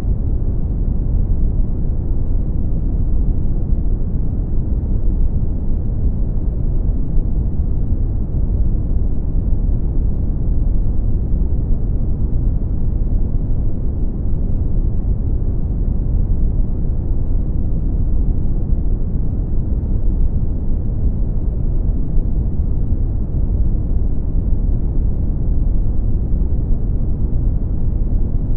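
Brown noise: a steady, deep rumbling hiss, strongest in the bass and with little treble, unchanging throughout.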